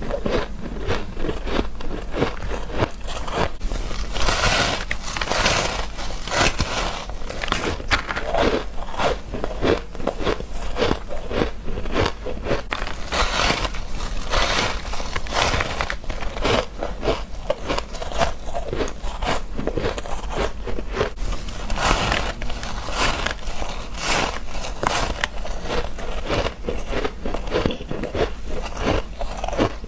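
Freezer frost and ice being bitten and chewed close to the microphone: a continuous run of sharp, crackly crunches, several to the second, with louder spells of bites now and then.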